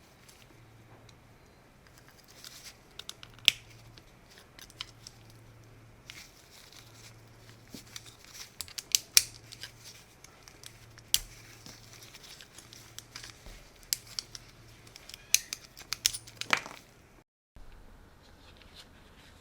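Irregular sharp clicks, snips and crinkles of hand work on small parts, over a faint low hum. The sounds stop about three-quarters of the way through, with a brief cut to silence.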